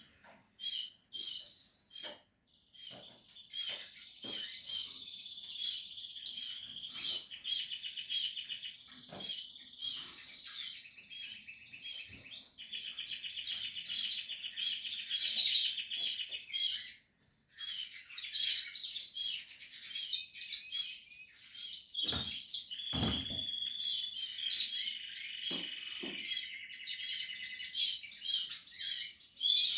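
Portuguese Harlequin canary singing long phrases of fast rolling trills and chirps, broken by short pauses. Sharp clicks run through the song, with one duller knock about two-thirds of the way in.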